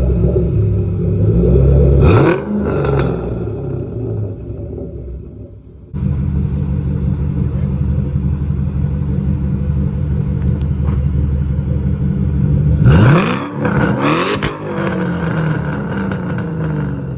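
2012 Shelby GT500's supercharged 5.4-litre V8 idling and being free-revved through a catless off-road X-pipe exhaust, loud. One sharp rev comes about two seconds in and another about thirteen seconds in, followed by a few quick blips, and the engine settles back to a lumpy idle between them.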